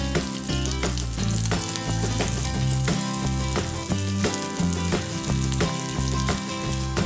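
Pork belly sizzling as it fries in a nonstick frying pan, with kitchen scissors cutting the meat and tongs clicking against the pan. Background music plays underneath.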